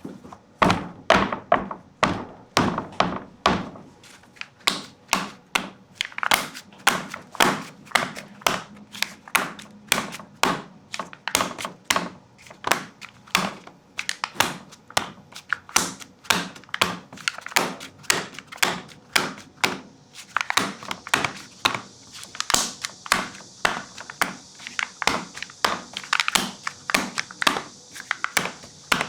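A steady run of sharp knocks, about two to three a second, with a hissing rattle joining in from about two-thirds of the way through.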